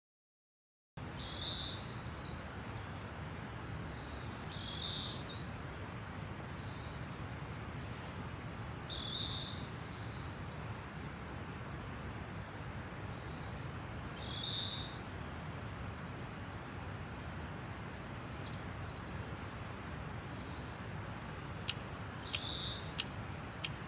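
Short bird calls, repeated every few seconds, over a faint steady outdoor hiss.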